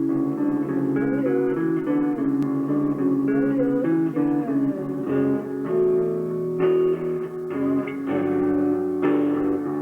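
Live band playing a guitar-led passage, with bass underneath and guitar notes bending in pitch.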